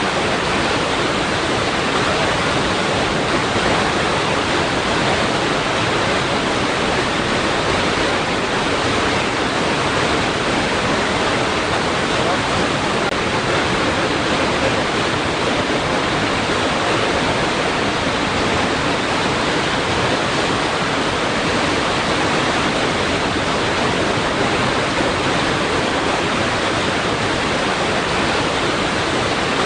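Water rushing steadily against rocks: a continuous, even rush with no swells or breaks.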